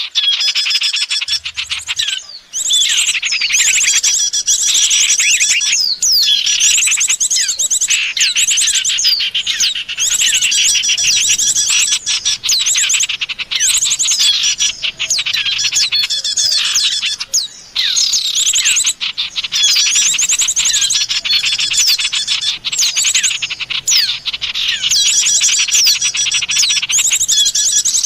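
A bird-lure recording of small songbirds chattering and trilling without pause, several calling at once in fast, high chirps and sweeps. The calls break off briefly about two seconds in and again past the middle.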